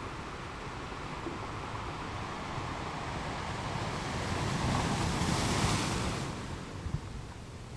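Ocean waves washing onto a shore: a steady surf wash that swells into one wave breaking with a hiss about five to six seconds in, then falls away.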